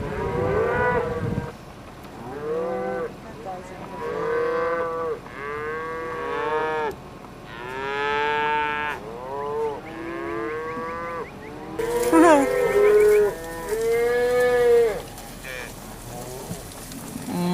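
Cattle mooing, many calls one after another from several animals, some overlapping, each rising and then falling in pitch.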